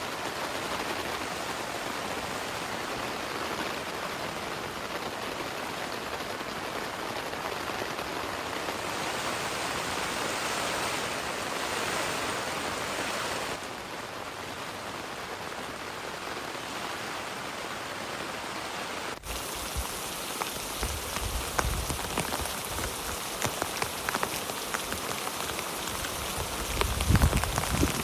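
Steady heavy rain falling. About two-thirds of the way through, the sound changes abruptly to a sharper patter of drops with low thumps, which grow loudest near the end.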